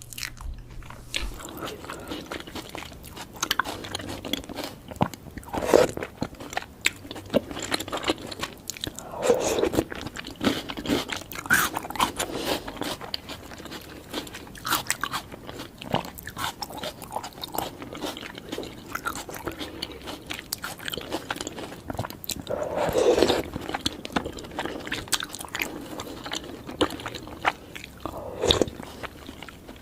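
Close-miked eating: a person biting and chewing soft, sticky sweets with small crunches and wet mouth clicks, and louder bites several times.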